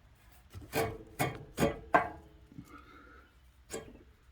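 Metal hardware and tools knocking and clinking while an exhaust manifold is fitted to the engine: four sharp knocks about half a second apart, some with a short metallic ring, then one more knock near the end.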